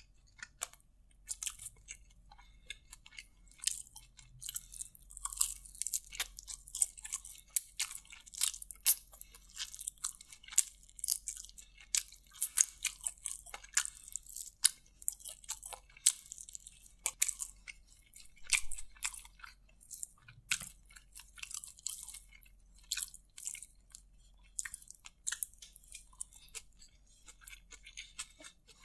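Close-miked chewing and biting of a fried chicken lollipop: many quick, irregular crisp crunches and mouth clicks.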